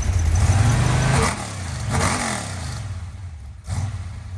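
Freshly built 350-cubic-inch V8 running on an engine test stand during warm-up, its throttle blipped twice so the pitch rises and falls, then settling back to a lower, steady run.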